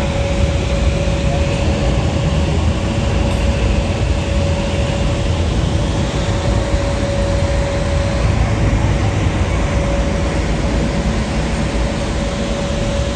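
Steady, loud engine rumble with a constant mid-pitched hum running through it.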